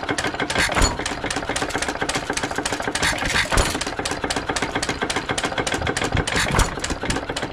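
Early-1920s Sattley hit-and-miss stationary gas engine running just after starting. It makes a steady, rapid rhythm of beats, with a few louder firing thumps spread through. It is running very rich, which the owner suspects is down to the setting of the mixer's needle valve.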